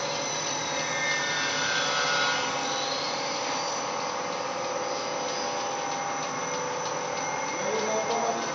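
Rewinding machine for nonwoven fabric running: a steady mechanical whirr with a motor whine over it, a few tones gliding in pitch in the first few seconds.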